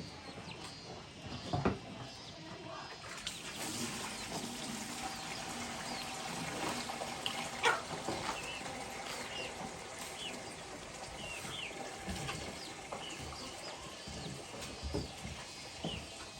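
Birds chirping in many short, repeated calls over a steady hiss that starts about three seconds in, with a couple of sharp knocks.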